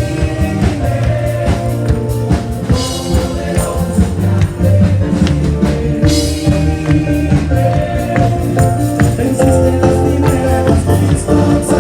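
Live Christian worship music: a band playing with singing and a steady beat.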